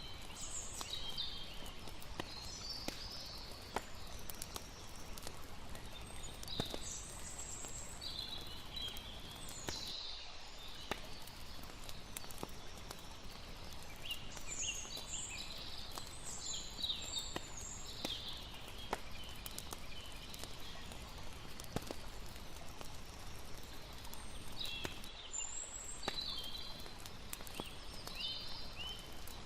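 Layered campfire-and-water night ambience: a fire crackling with scattered small pops over a steady hiss of water. Clusters of high chirping calls come and go several times.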